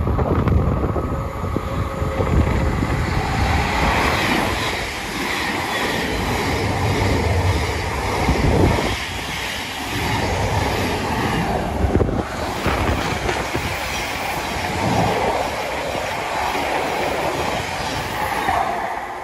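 A passenger train passing close by on the main line, its wheels clattering and rumbling on the rails throughout.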